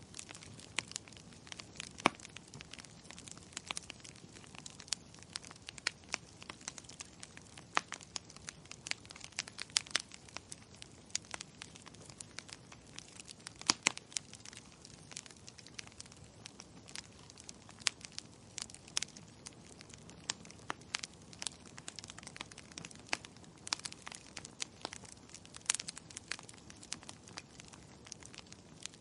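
Wood fire crackling in a fireplace: irregular sharp pops and snaps, several a second, over a soft steady hiss, with a few louder pops among them.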